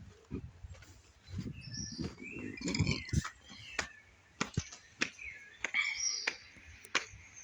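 Birds chirping in short high calls, mixed with scattered sharp clicks and knocks.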